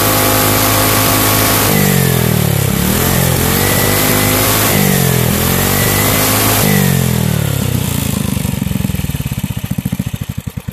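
Single-cylinder 5 hp Briggs & Stratton small engine running at high speed, its revs dipping and picking up again several times. Near the end it winds down, the firing strokes slowing until it stops.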